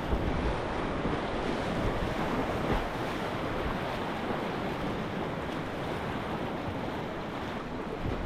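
Class III whitewater rapids rushing steadily, with wind buffeting the microphone.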